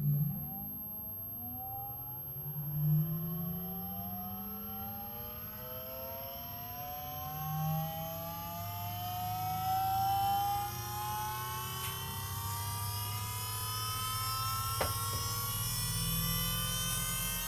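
Electro-hydraulic power steering pump running: an electric motor whine that rises slowly in pitch, over a low hum that swells louder a few times. Two sharp clicks come in the last few seconds.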